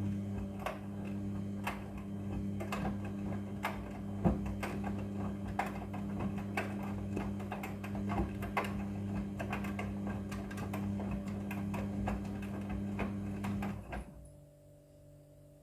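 Front-loading washing machine running a wash tumble: the drum motor hums steadily while the load knocks and clicks irregularly against the drum. The motor stops suddenly about 14 seconds in.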